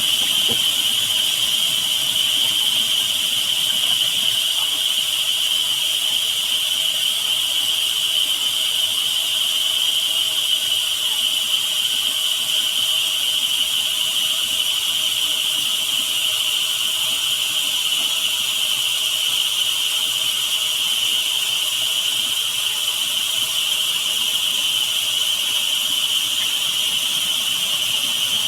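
Steady high whistling tone over an even hiss, unchanging in pitch and level.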